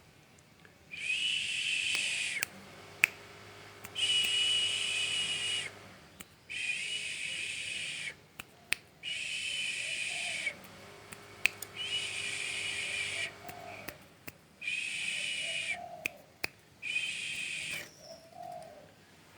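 A cage songbird in full song, giving seven long, hissy, buzzing calls in a row. Each call lasts about one and a half to two seconds with a steady pitch, and short gaps fall between them.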